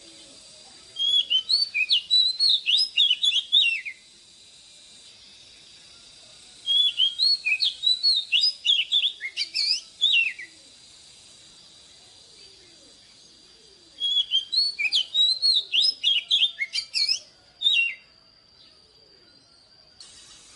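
Oriental magpie-robin singing three phrases of rapid, varied whistled notes, each a few seconds long, separated by short pauses.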